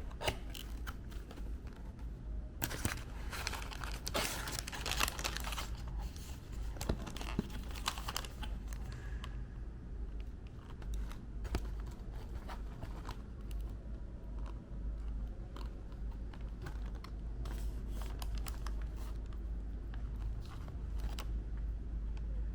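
Paper and cardboard fried-chicken packaging being handled and opened: crinkling and rustling, densest a few seconds in, then scattered taps and crinkles over a steady low hum.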